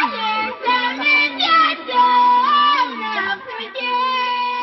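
A child's voice singing a slow melody in long held notes that step up and down, ending on one long steady note.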